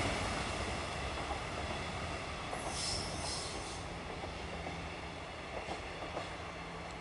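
Six-car X'Trapolis electric suburban train running away into the distance, its running noise fading steadily. About three seconds in, a brief high wheel squeal, and a few faint clicks near the end.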